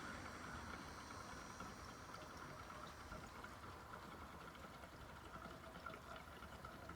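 Gasoline being poured in a faint, steady trickle.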